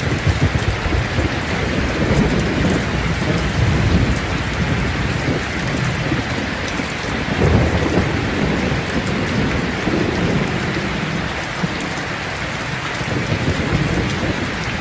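Steady heavy rain with rolling thunder, the low rumbles swelling and fading several times.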